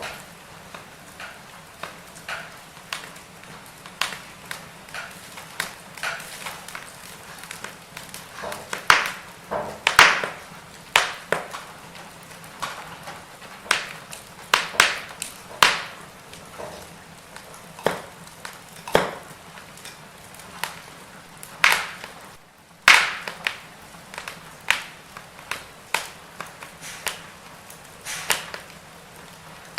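Burning firewood crackling: irregular sharp pops and snaps over a low steady hiss, with the loudest snaps around ten seconds in and again a little past twenty seconds.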